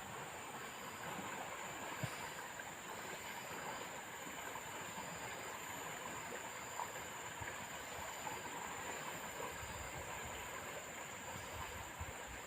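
Faint steady hiss of background noise with a few soft clicks, one of them about two seconds in.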